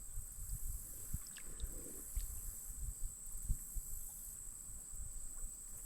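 Steady high-pitched drone of insects in the creekside woods, with faint irregular low knocks underneath.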